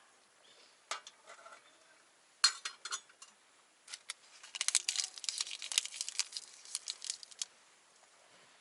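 Small hard objects being handled, clicking and clinking: single clicks about 1 and 2.5 seconds in, then a dense rattle of clicks for about three seconds from the middle on.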